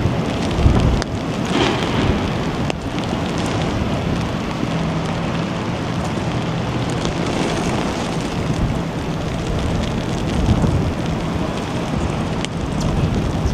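Steady rush of rain with wind buffeting the microphone in a low, unsteady rumble, and a few sharp ticks.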